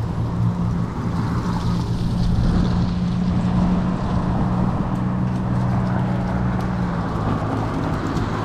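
Wind rushing over the microphone while riding a fat-tire e-bike in strong wind, over a steady low hum from the moving bike.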